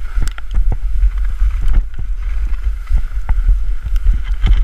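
Snow hissing and scraping under a person glissading down a steep snow slope, with irregular bumps and knocks as they ride over the surface. Wind rumbles on the microphone throughout.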